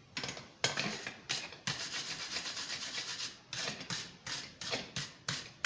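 Wire brush scrubbing a freshly forged steel ring to clean off scale, in quick repeated scratchy strokes, about two or three a second, with a short pause a little past the middle.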